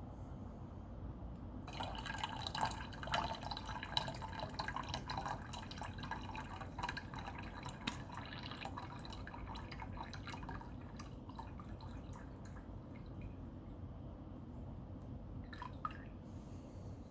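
Water trickling and dripping around a Yixing clay teapot, starting about two seconds in and thinning out by about eleven seconds. A short click comes near the end.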